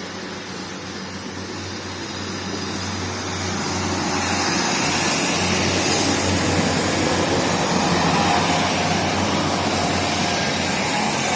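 Diesel passenger train running past, its steady engine hum and wheel noise growing louder about four seconds in and staying loud to the end.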